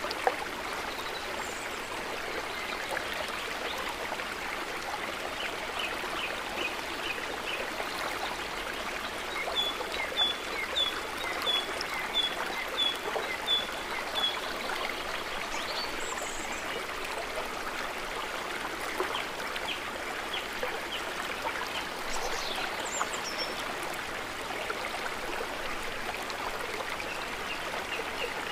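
Calm lake water trickling gently and steadily. In the middle there is a short run of high chirps, about two a second, from a bird.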